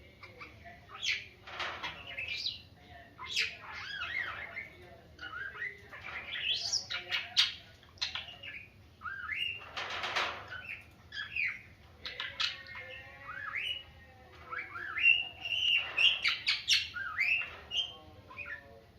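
Pet cockatiel and parakeet chirping and whistling in quick strings of short rising and falling notes, with a few harsh, noisy bursts among them.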